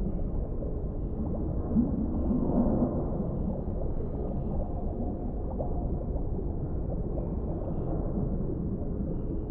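Underwater ambience: a steady, muffled low rumble of deep water with gurgling and bubbling, swelling briefly about two seconds in.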